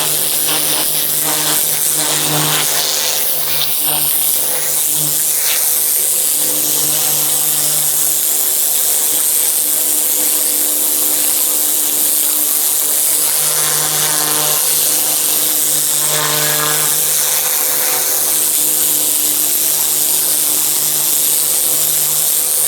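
Pressure washer running, with a steady low hum under a loud hiss from the spray. The hum fades back for several seconds in the middle, then comes up strongly again.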